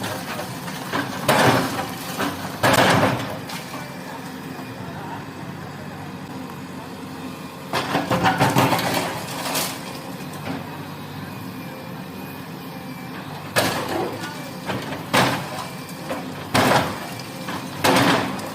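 Excavator engine running steadily, with repeated sharp crashes as a roof is broken up, a cluster of them about halfway through.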